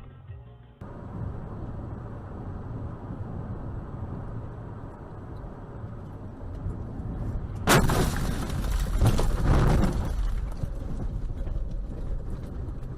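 Steady low vehicle and road rumble, then a sudden loud bang about eight seconds in, followed by two more seconds of loud crunching noise: a car collision on the dashcam.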